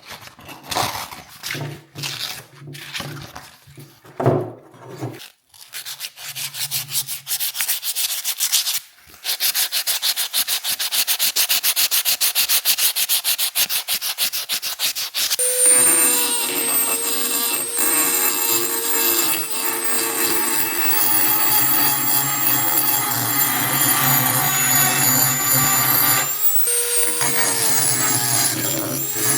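Abrasive rust removal on an old iron horseshoe: quick rubbing strokes first, then a small power tool running with a steady whine against the metal. The tool stops briefly near the end and starts again.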